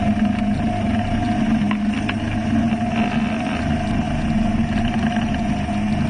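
Engine of a homemade flying boat running at a steady speed, a constant droning hum.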